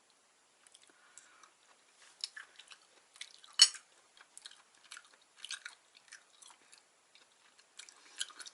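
Close-up chewing of chewy, spicy stir-fried gopchang (vegetable gopchang): a string of small wet clicks and smacks, with one sharper, louder click about three and a half seconds in.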